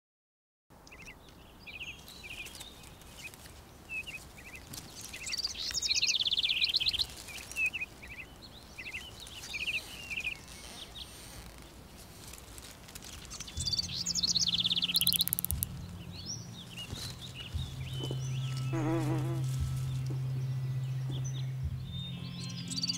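Songbirds singing, with repeated fast trilling phrases. A steady low hum comes in about two-thirds of the way through, and a short wavering call sounds near the end.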